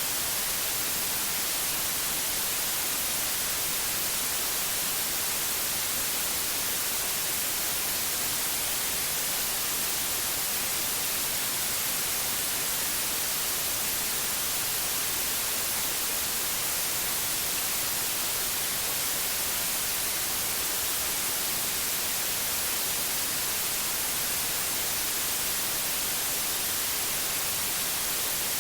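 Steady, unbroken white noise: an even hiss with no changes or events, brightest in the high frequencies.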